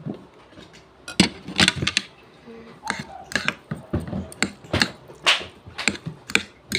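A run of sharp, irregular clicks and clinks, several a second, from utensils and dishes being handled, starting about a second in.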